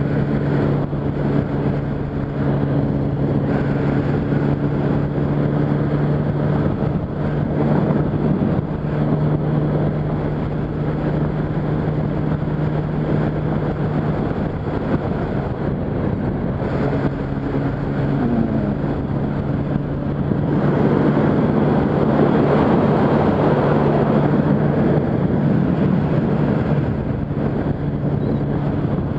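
Yamaha R1's inline-four engine running steadily at highway cruising speed, with wind rush over the rider. The engine note briefly rises about two-thirds of the way in. The wind rush grows louder soon after.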